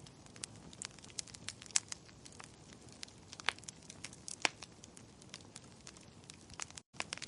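Wood fire crackling in a fireplace: irregular sharp pops and snaps of varying strength over a low steady hiss, with a few louder pops. The sound drops out completely for a split second near the end.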